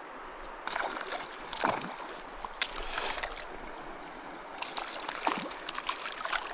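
Small mountain stream running, with irregular splashing and sloshing in the water.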